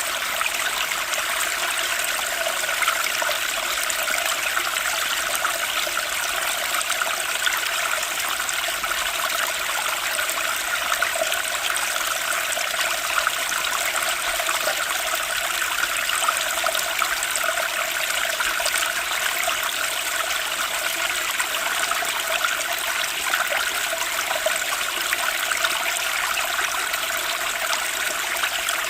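Running water, a steady trickling stream that flows on without change.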